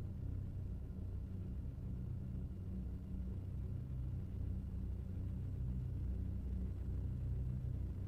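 Deep, steady electronic drone of ritual-industrial music: a few low tones held under a rumble, with nothing sharp or high above them.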